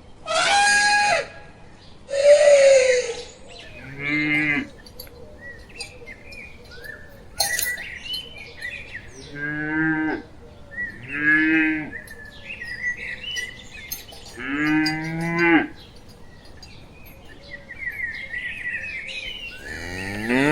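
Animal calls: two loud, rough calls in the first three seconds, then four low, drawn-out moo-like calls about a second each, with short bird chirps between them.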